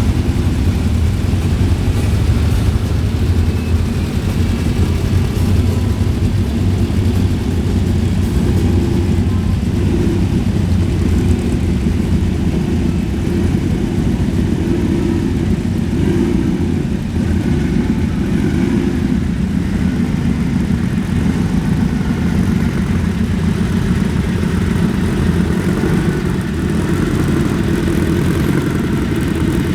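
Vehicle engine running steadily at idle: a low, even drone that holds without a break.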